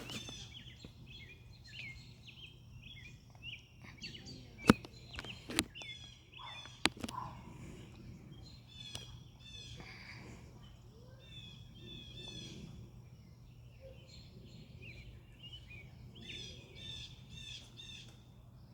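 Small birds chirping in quick repeated high notes throughout, with a few sharp clicks or taps in the first seven seconds, the loudest about four to five seconds in.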